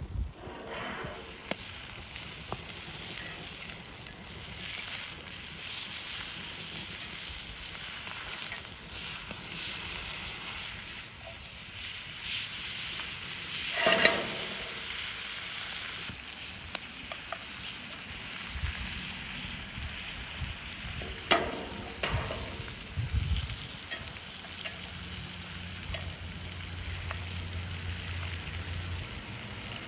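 Ribeye steak sizzling in butter over a campfire: a steady hiss, with a few sharp knocks, the loudest about halfway through.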